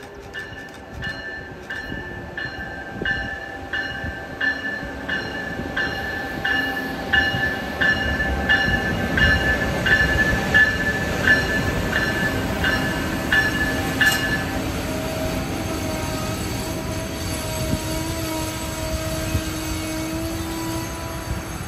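Amtrak ACS-64 electric locomotive and its coaches rolling by. The locomotive's bell rings about one and a half times a second, then stops about two-thirds of the way through. The rumble of the passing cars goes on, with a steady squeal near the end.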